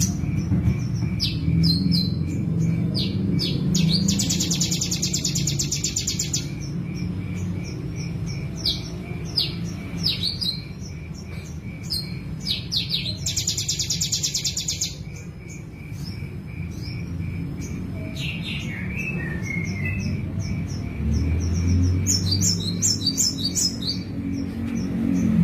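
Songbird singing: short sweeping chirps, with two long, rapid buzzing trills about 4 and 13 seconds in and a cluster of quick chirps near the end. A faint steady pulsing tick and a low rumble run underneath.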